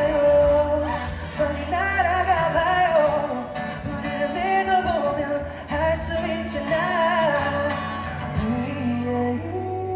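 Live pop song: a male singer's sung melody over steady accompaniment with guitar.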